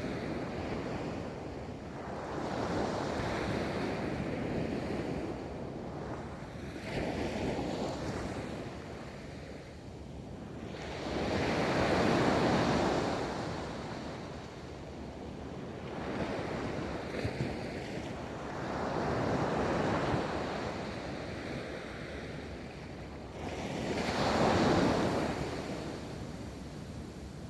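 Ocean waves rolling onto a beach: a continuous surf wash that swells as each wave breaks and eases as it draws back, several waves in a row, with some wind noise on the microphone.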